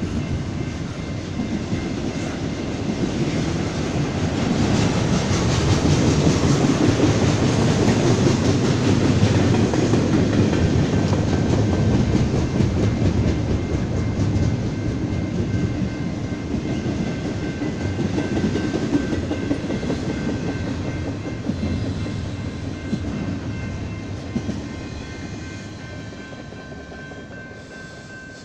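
Double-stack intermodal freight train's well cars rolling past, steel wheels clattering over the rail joints. The rumble swells a few seconds in, holds, then fades as the end of the train moves away.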